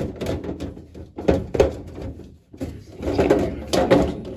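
A plastic basket being pushed and worked into a refrigerator's deli drawer, with irregular plastic knocks, rattles and scrapes as it is tried for fit.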